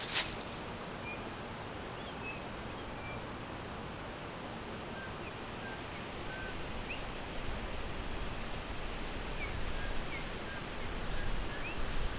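Forest ambience: small birds giving short, faint, high chirps, scattered through a steady hiss of background noise. A sharp crackle sounds right at the start, and a low rumble builds through the second half.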